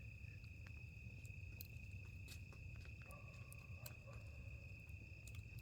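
Crickets chirping in a steady, continuous high-pitched trill, with a few faint scattered clicks.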